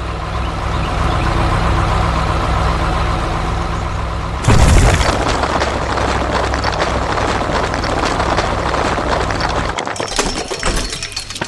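Bulldozer engine running steadily. About four and a half seconds in comes a loud crash, followed by a continuing crackle of breaking rubble. Near the end the engine hum drops away, leaving scattered clicks.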